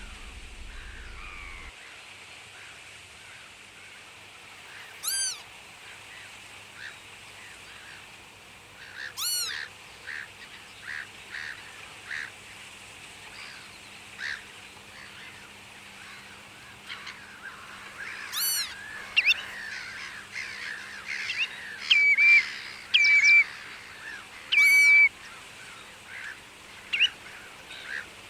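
Waterbirds calling: about five loud, full calls a few seconds apart. From about two-thirds of the way through there is a busier chatter of shorter calls, with a few brief held whistled notes.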